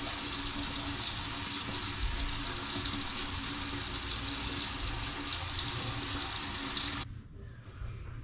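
Bathroom sink tap running steadily while someone rinses their face under it. The flow stops suddenly near the end.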